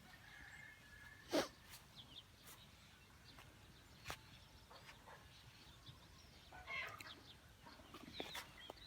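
Faint, scattered animal calls, with a single sharp click about a second and a half in.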